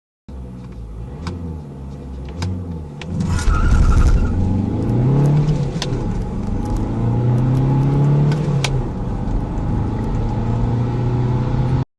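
Audi A3 8P engine pulling hard from a standstill in a 0–100 km/h run, its pitch climbing through the gears with two upshifts, after a few seconds of low running at the start. A few sharp clicks sound over it.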